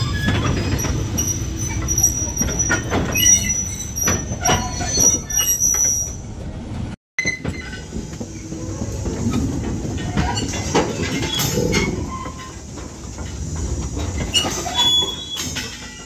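Train rolling slowly over jointed track: a steady wheel-and-rail rumble with knocks and clanks, and a high wheel squeal held for several seconds near the start. The sound drops out for an instant about seven seconds in.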